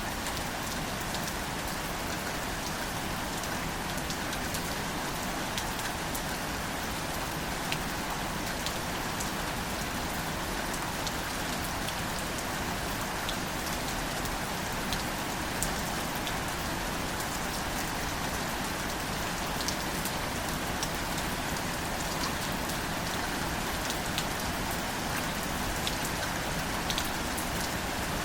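Steady gentle rain falling on plants and leaves, an even hiss with scattered light drop ticks.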